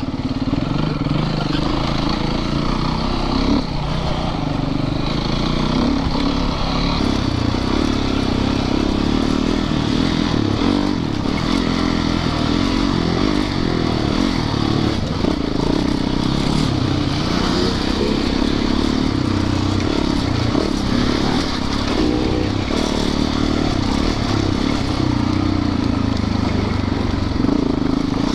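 Dirt bike engine running steadily without big revs, with some light clatter.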